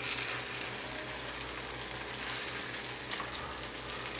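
Chicken frying in a pan, a steady sizzle with a few faint crackles about three seconds in.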